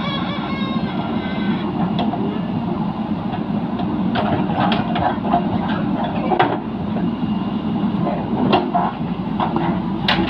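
JCB backhoe loader's diesel engine running steadily under work, with scattered sharp knocks and clanks from the digging.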